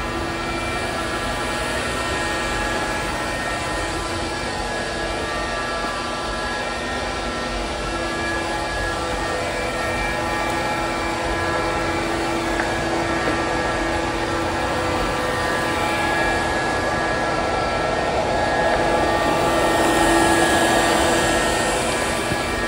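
ILIFE robot vacuum running, a steady motor hum with a high whine, swelling louder about three-quarters of the way through as it comes closer.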